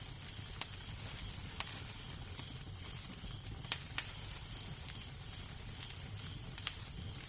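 Fireplace fire crackling: a steady low rumble and hiss with irregular sharp pops, a pair of louder ones a little past the middle.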